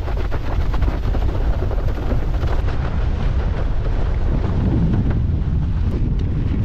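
Strong wind buffeting the camera's microphone while a windsurfer sails at speed, with water rushing and slapping under the board; loud and continuous, the slaps densest in the first few seconds.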